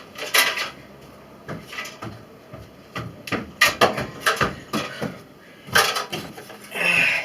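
Irregular hard knocks and clattering bangs, about a dozen spread over several seconds, from the smashed microwave and its handling on the wooden stairs.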